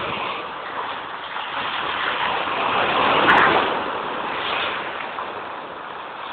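Big sea waves crashing in a rushing surf. One wave builds to a loud break about three seconds in, then the noise eases off.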